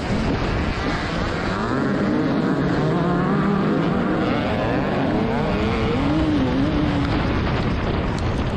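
2021 TM 300 ES single-cylinder two-stroke motocross engine being ridden hard, its revs rising and falling over and over with throttle and gear changes, over a steady rush of wind noise.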